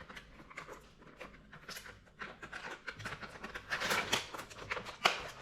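Hands handling a block of feta cheese and its packaging: a run of light clicks and rustles, busiest about four seconds in.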